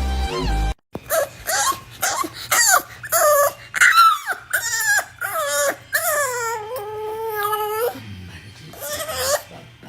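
A dog whining and yipping in a run of short calls that bend up and down in pitch, then a longer drawn-out whine, and one more short whine near the end.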